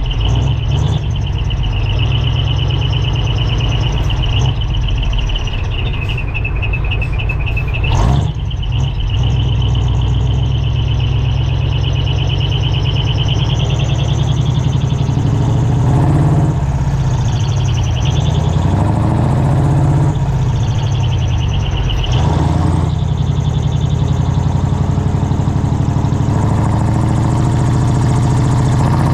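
Hino Profia Terravi truck's V8 diesel engine running loudly through an open, unsilenced twin exhaust, with a deep rumble at idle. It is revved up and down several times about midway, and there is a sharp knock about eight seconds in.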